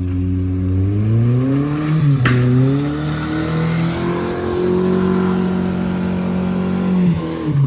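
Car engine revving under hard driving: its pitch climbs, dips briefly with a sharp knock a little over two seconds in, then climbs again and holds high for a few seconds before dropping off near the end.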